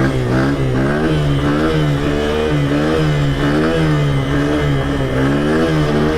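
Honda CRF100 pit bike's small single-cylinder four-stroke engine running hard, its revs rising and falling over and over, about once every second or less, as the throttle is worked through a wheelie.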